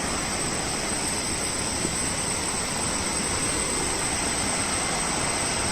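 Steady rushing of a fast-flowing rocky river, an even wash of water noise, with a thin steady high-pitched tone running above it.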